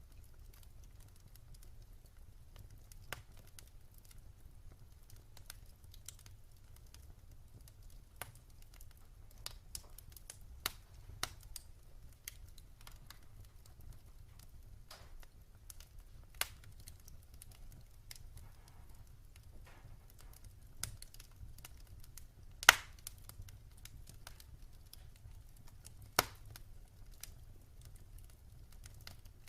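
Wood fire crackling in a fireplace: irregular sharp pops and snaps over a low steady rumble, with one loud pop about two-thirds of the way through.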